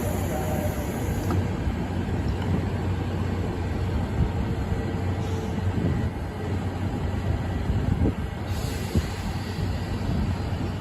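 Steady running noise of a passenger train heard from on board: a constant low rumble and hum, with a few short knocks along the way.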